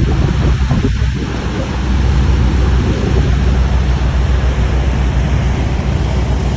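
Heavy wind buffeting the microphone: a loud, steady low rumble under an even rush of noise.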